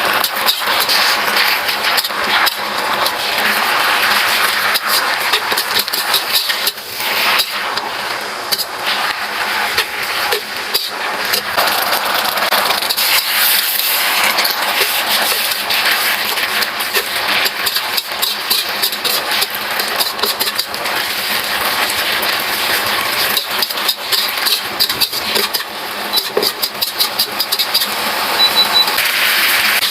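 Food sizzling hard in a hot pan as it is stir-fried, with frequent clicks and scrapes of the utensil against the pan.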